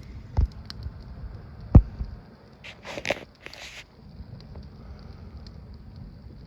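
Campfire crackling with scattered small pops over a low rumble; two dull low thumps in the first two seconds, the second the loudest, and a short rustling hiss around the middle.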